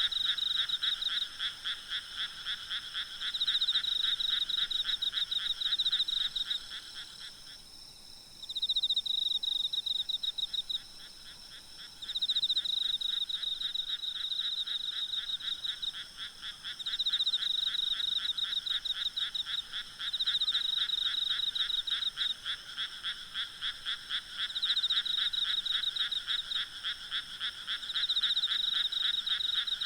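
Night chorus of frogs calling in fast pulsed trains, with louder bouts swelling up every few seconds and a brief lull about eight seconds in. Faint steady high-pitched insect trilling runs underneath.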